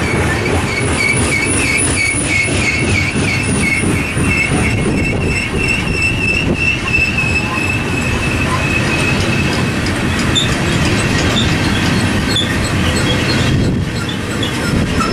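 Freight train rolling past, its steel wheels squealing against the rails over the steady rumble and clatter of the cars. The squeal is a wavering high whine, strongest in the first half, with shorter squeals breaking out later.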